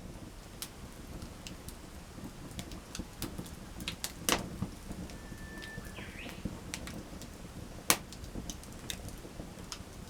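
Wood fire crackling with scattered sharp pops, two of them louder (a little before halfway and near the end), over a low steady rumble.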